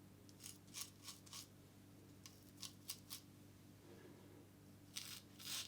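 Occam's Razor Enhanced Nano single-edge safety razor scraping through two days of stubble in short, faint, crisp strokes, in small groups of three or four, with a quicker run of strokes near the end.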